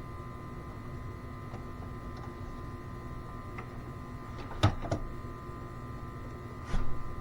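Steady electric hum of an EVAP smoke machine running as it feeds smoke into the system, with a couple of sharp knocks past the middle and a louder clatter of knocks near the end.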